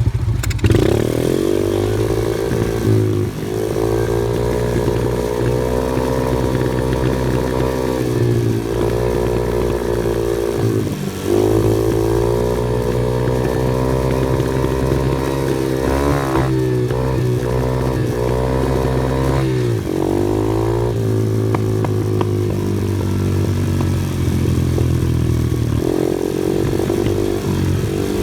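Engine of an off-road vehicle being driven, its pitch rising and falling over and over as the throttle is opened and eased off, with brief drops every few seconds.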